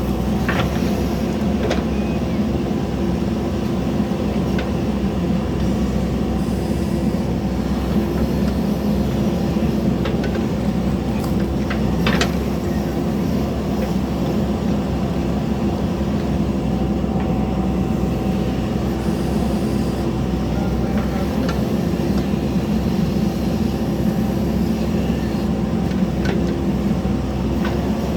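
JCB backhoe loader's diesel engine running steadily while it works, with a few short metallic knocks, the clearest about twelve seconds in.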